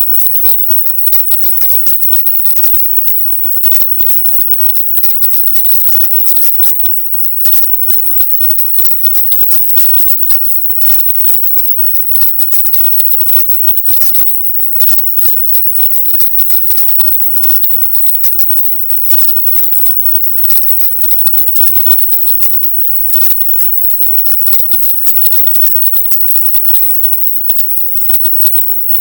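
Loud, dense hiss that sits mostly high in the treble, crackling and broken by many brief dropouts: the processed sound of a 'silent subliminal' track, in which the spoken affirmations are hidden in the noise.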